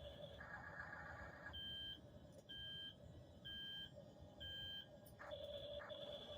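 Four electronic beeps about a second apart, like a reversing alarm, from the sound effects of a Double E remote-control track-type tractor toy.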